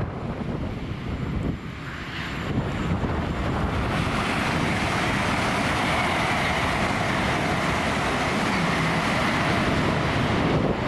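LNER Azuma (Hitachi high-speed train) passing close at speed: a steady rush of wheel, rail and air noise that builds about two seconds in and holds, over a low rumble.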